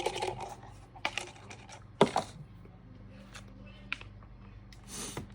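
Close-miked eating sounds: utensils clicking and clinking against a dish, with the loudest click about two seconds in and a short noisy rustle near the end.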